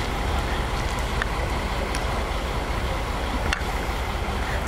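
An engine running steadily with a low rumble and a noisy hiss over it, with a sharp click about three and a half seconds in.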